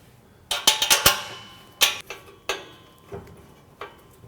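Hand tools clinking and clanking on metal under a car: a quick cluster of sharp clinks about half a second in, then single knocks spaced well apart.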